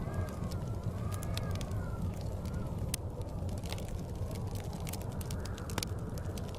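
Blizzard wind howling in slow rising and falling whistles over a low steady rumble, with a wood fire crackling and popping in sharp scattered snaps.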